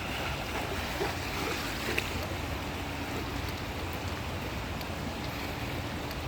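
Man-made cascading waterfall: water pouring and splashing steadily.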